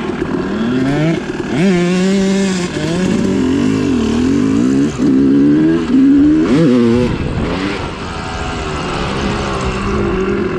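Yamaha YZ250 two-stroke dirt bike engine being ridden hard, its pitch climbing and dropping again and again as the throttle opens and closes through the gears, settling lower and steadier near the end.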